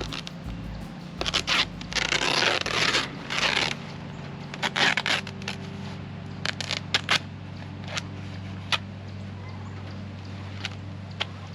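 Plastic tarp rustling and scraping as it is handled and cut, loudest in the first few seconds, followed by a scatter of short sharp clicks.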